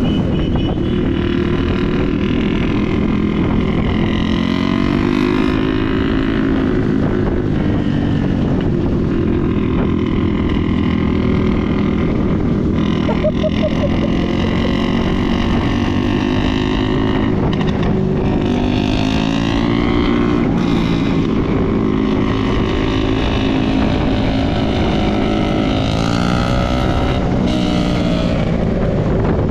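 Motorcycle engine running under way, its pitch rising and falling again and again as the rider works the throttle, over a steady rush of wind noise.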